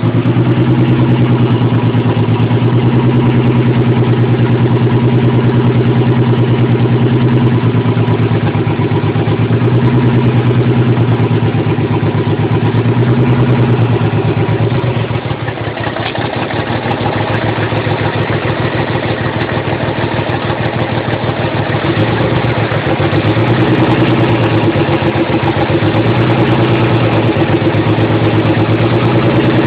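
Nissan 300ZX's 3.0-litre V6 idling roughly, misfiring on one or two cylinders, which the owner puts down to bad fuel injectors and old injector clips. The note wavers unevenly, and it dips and changes character about halfway through.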